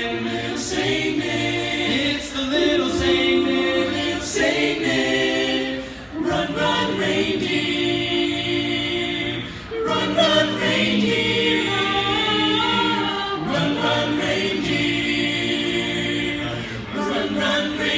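A cappella vocal group singing held chords in close harmony without words, the chords shifting every second or two, with short sharp clicks over the top.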